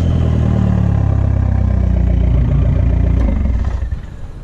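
Engine of a customized, intercooled Mopar car running loudly through its exhaust with a deep, steady note. It cuts out about three and a half seconds in.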